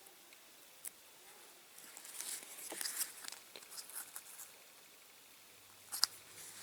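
Faint crackling rustle of thin masking tape being handled and pressed onto a small round model part, with a few small sharp clicks, one just under a second in and a louder one near the end.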